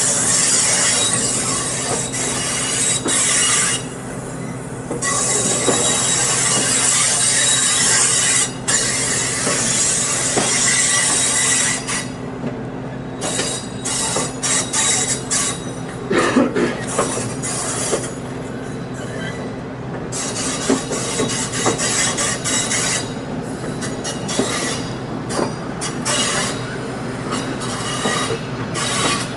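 Passenger train running on the rails, heard from on board: a loud steady hiss of wheel and ride noise over a low hum. About twelve seconds in the hiss drops back, then surges and fades in patches.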